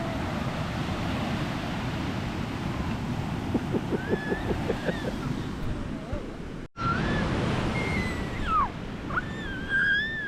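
Ocean surf washing onto the beach, a steady rush. In the second half, a few high swooping calls sound over it.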